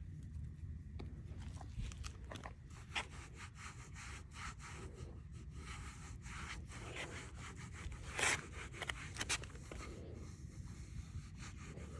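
A towel rubbing and wiping over the black plastic of a motorcycle mirror housing, working in trim restorer, with irregular scuffs and small taps over a steady low rumble.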